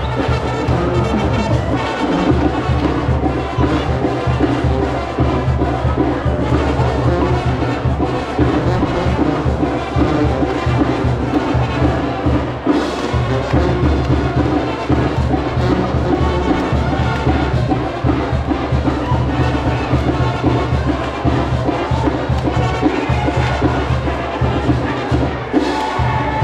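Live band music with brass instruments over steady percussion, played loud and continuous, with crowd noise beneath.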